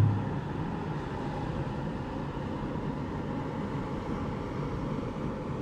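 Steady background noise: an even hiss and low rumble with no distinct events.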